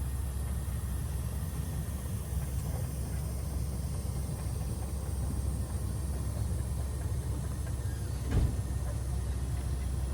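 Steady low rumble of a vehicle's engine and road noise while on the move, with a single thump about eight seconds in.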